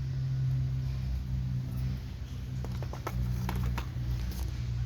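Steady low room hum with a scatter of faint light clicks and taps about halfway through.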